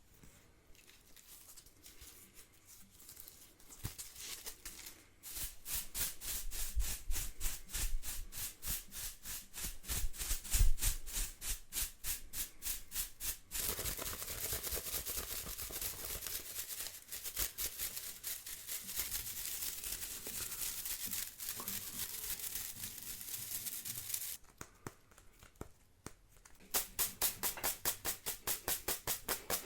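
Household bundle broom (venik) bristles brushing and rustling: faint at first, then quick rhythmic strokes, several a second. About halfway in the strokes give way to a continuous swishing rub, then after a short lull the rhythmic strokes return near the end.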